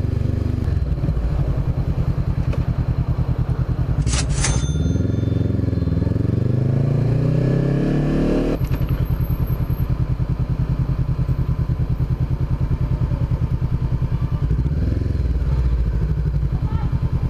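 2013 Honda CBR500R's parallel-twin engine running at low revs with an even pulse. About four seconds in there are two sharp clicks, then the revs rise steadily for about four seconds and drop off suddenly, after which the engine settles back to its low, even beat.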